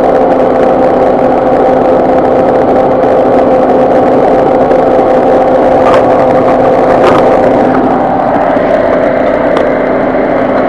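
Steady, loud running drone of a Ford EcoSport with its air-conditioning system going, with a constant hum. Two short clicks come about a second apart past the middle, and the hum fades a little before the end.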